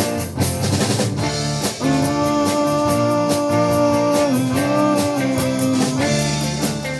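Live rock band playing an instrumental stretch between sung lines: drum kit keeping a steady beat under guitar and bass, with one long held melody note from about two seconds in until about six seconds.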